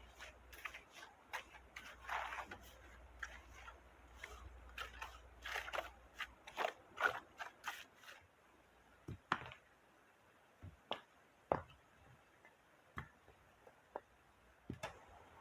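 A run of irregular sharp clicks and knocks, close together for the first half, then a handful of single clicks a second or more apart.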